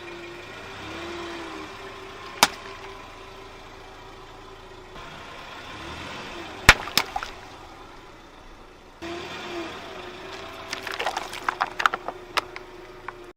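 A car's engine runs slowly as its wheel rolls onto brittle objects, with single sharp cracks and then a burst of crackling as they are crushed near the end.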